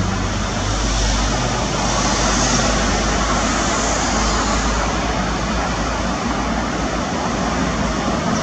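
Jet airliner engine noise from a landing aircraft: a steady roar with a deep rumble underneath, swelling a little between two and four seconds in.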